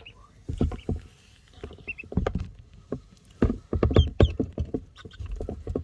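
Ducklings pecking and dabbling at their food: a quick, irregular run of wet taps and little splashes, with a few short high peeps.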